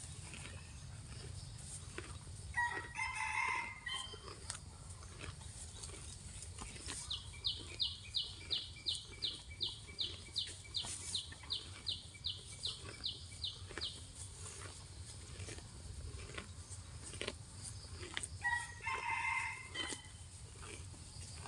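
A rooster crowing twice, once a few seconds in and again near the end. Between the crows comes a run of about twenty quick, high chirps, some three a second, over short crisp clicks that fit a cow tearing grass as it grazes.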